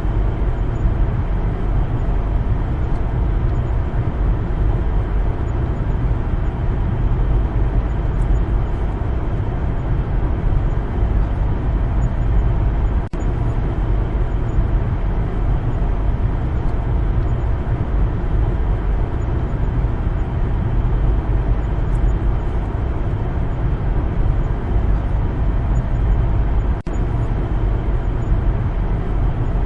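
A car driving, with a steady mix of engine and tyre road noise that is heaviest in the low end. The level dips briefly twice.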